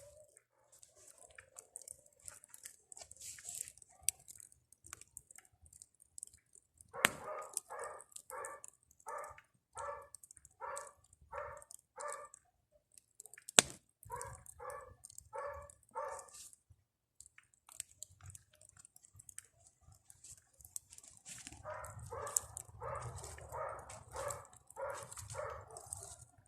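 A dog barking in steady runs of about two barks a second, three times over, with crackling and snapping from a wood campfire between and beneath the barks, including one sharp pop about midway.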